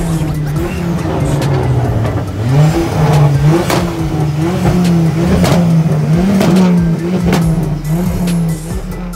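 A modified car's engine being revved. The note jumps up about two and a half seconds in, then is held high, rising and falling again and again.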